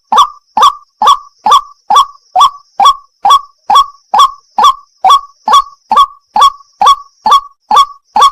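White-breasted waterhen ('wak wak') giving its harsh 'wak' call over and over, about two calls a second, evenly spaced.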